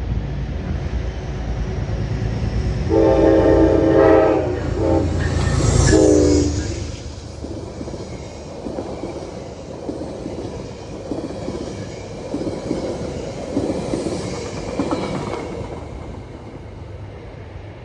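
A train passing close by sounds its air horn: a long blast about three seconds in and a short one about a second later, over a deep rumble that fades as the head end goes by, followed by the rattle and clack of railcars rolling past.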